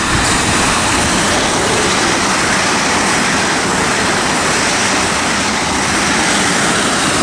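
Pair of Class 450 Siemens Desiro electric multiple units moving past close by, a loud, steady rush of wheel and running noise.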